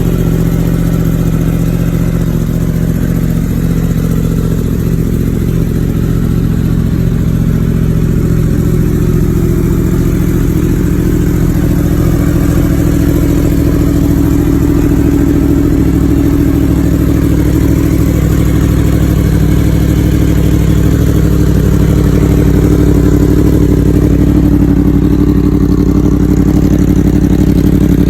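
2020 Yamaha YZF-R1M's crossplane inline-four idling through an Akrapovič exhaust system, steady and loud. The idle eases a little lower over the first several seconds, then holds even.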